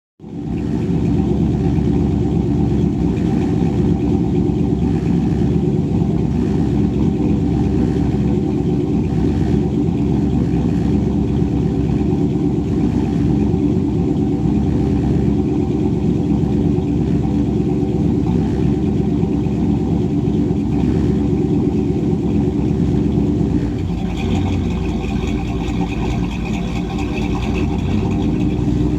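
Chevrolet 350 small-block V8 in a 1990 Chevy C1500 pickup, fitted with a small RV camshaft and running on its stock throttle-body injection, running steadily at idle. A higher-pitched tone joins in for the last few seconds.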